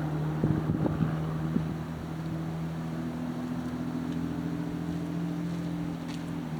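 Steady low mechanical hum of a running motor, with a short cluster of knocks and rattles about half a second to a second and a half in.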